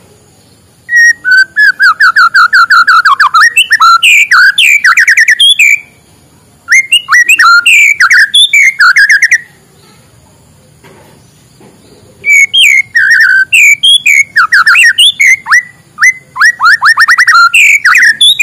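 White-rumped shama singing: three loud bouts of fast, repeated whistled notes that sweep up and down, with short pauses between the bouts.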